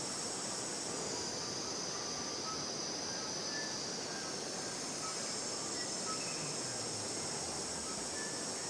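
Steady high-pitched insect chorus, like cicadas, with a few short faint chirps scattered through it.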